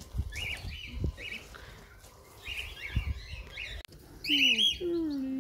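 Small birds chirping, short high calls repeated in quick runs and loudest in the second half. A few low thuds come in the first half, and near the end a lower drawn-out tone slides down and then holds.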